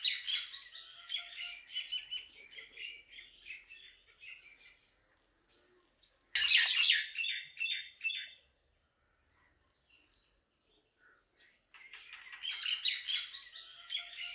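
Small birds chirping and twittering in quick runs of high notes. The chirping comes in three spells: one fades out after about five seconds, a short louder burst follows at about six seconds, and another spell starts near the end.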